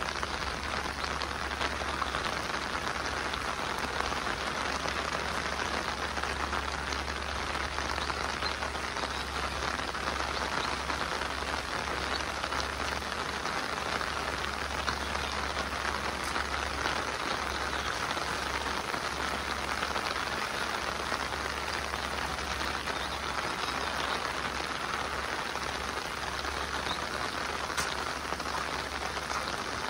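Steady monsoon rain falling, an even hiss with many close drops heard as sharp ticks, over a low steady rumble.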